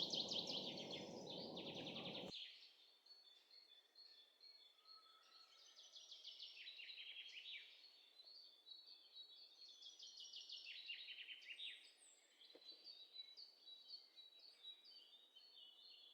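Faint birdsong: small birds chirping, in quick runs of repeated notes that fall in pitch. A low background hiss cuts off about two seconds in.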